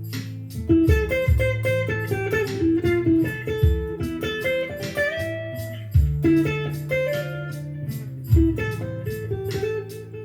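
Electric guitar playing a blues melody line over long low bass notes and a steady beat.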